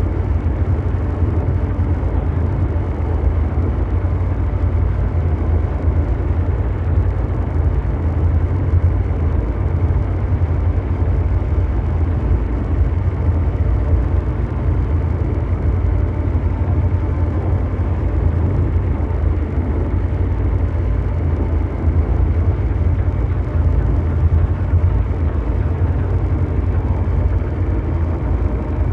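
Continuous mechanical drone noise: a steady, unchanging deep rumble, heaviest in the bass, with a rough hiss over it that thins out above the mid range.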